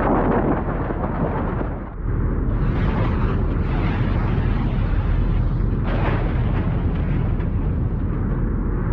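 Strong storm wind rumbling on the microphone, a continuous heavy rumble and hiss that drops briefly about two seconds in, then comes back with more hiss.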